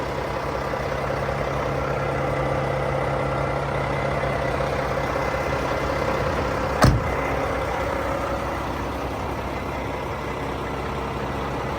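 Volvo FH 420 truck's 13-litre six-cylinder diesel idling steadily. A single sharp knock about seven seconds in.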